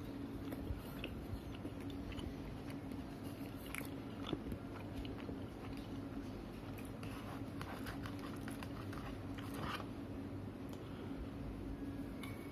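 A person biting and chewing McDonald's French fries dipped in chocolate syrup, with scattered soft crunches, over a steady low hum.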